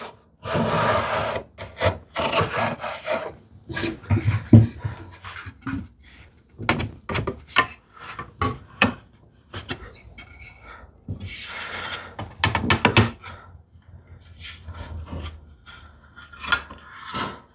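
Hand tools shaving and scraping wood from a tenon in irregular strokes, each under a second to about a second and a half long, with a few short knocks between them.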